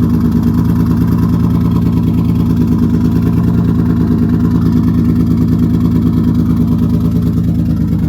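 Turbocharged Infiniti G35's V6 engine idling steadily with an even, regular pulse, running with its exhaust downpipe not yet finished.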